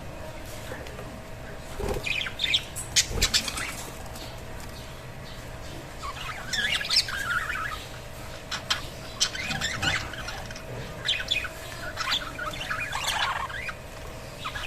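Budgerigars chirping and warbling in bouts of rapid, high chirps with short pauses between.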